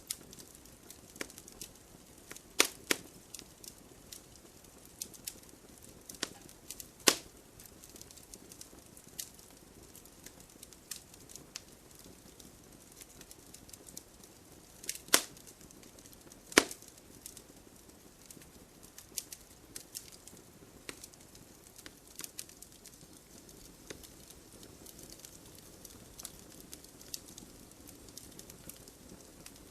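Wood fire in an open fireplace crackling: irregular small snaps over a low hiss, with a few louder pops, the loudest about 3, 7, 15 and 16 seconds in.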